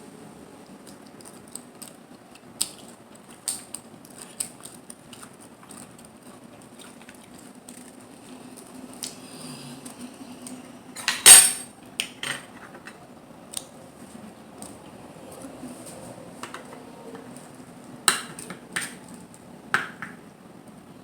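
Scattered clinks and clacks of mussel and clam shells and cutlery against dishes during eating. The loudest clack comes about halfway through, and a quick run of clicks comes near the end.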